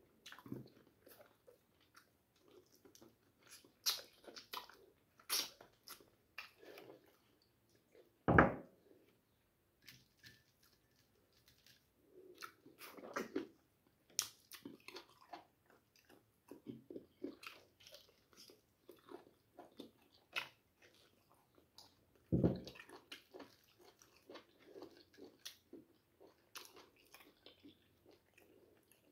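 Close-up chewing and biting of meat on the bone, eaten by hand, with many small wet clicks and crunches. Two louder thumps come about a third of the way in and again past the three-quarter mark.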